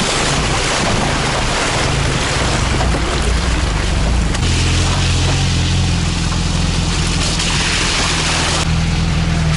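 Vehicle engine running steadily under load while driving along a rough, wet dirt road, with a continuous rush of tyre and water noise from the puddles. The rushing and the engine hum grow stronger about halfway through, then ease off near the end.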